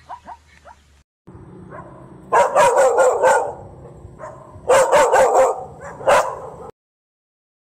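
Dog barking: a quick run of loud barks, a pause, a second run, and one last single bark, over a low hum. The first second holds a few quick, high yelping calls from a zebra.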